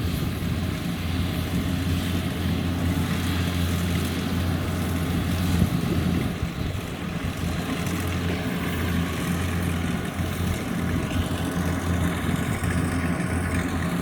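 Rice combine harvester's diesel engine running steadily at working speed, a continuous even hum.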